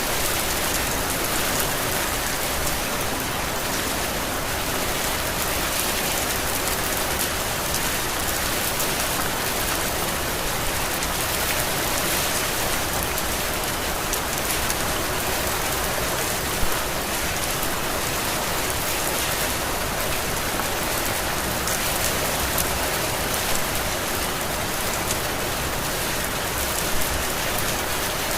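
Heavy rain falling steadily as a dense, even hiss, with a few brief louder taps standing out.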